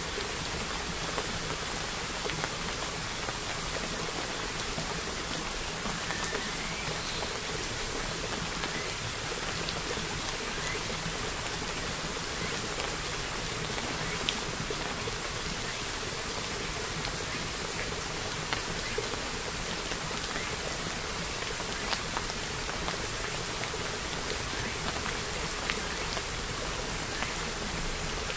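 Steady rain-like hiss at an even level throughout, with a few faint scattered ticks.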